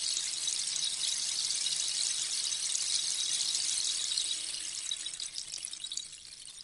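Rainstick: a steady cascade of small pebbles or beads trickling down inside the tube, a dense, rain-like hiss that thins out and fades near the end as the fill runs down.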